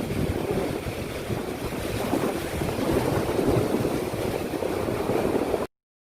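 Wind buffeting the microphone, a loud, rough, fluttering rumble, most likely with sea surf beneath it. It stops abruptly near the end.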